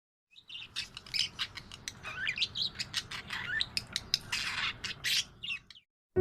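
Budgerigar chattering: a fast, busy run of short chirps, squeaks and squawks that stops just before the end.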